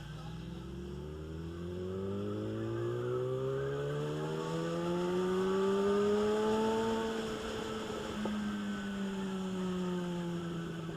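Motorcycle engine pulling away, its pitch rising steadily for several seconds and then easing off as it slows.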